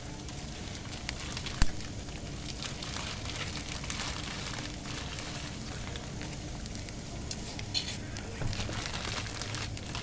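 Pot of water at a boil, bubbling and crackling steadily, with a single sharp knock about a second and a half in.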